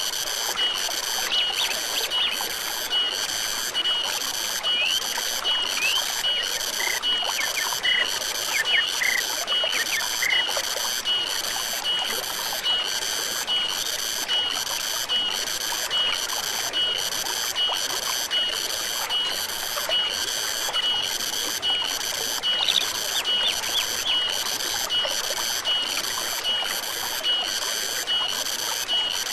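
Forest stream running steadily, under a high animal call that pulses at an even beat a little faster than once a second. Short bird chirps come in now and then, clustered early on and again about three-quarters of the way through.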